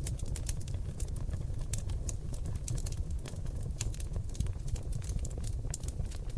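Seasoned oak logs burning in a fireplace, crackling with frequent irregular sharp pops and snaps over a steady low rumble of the fire.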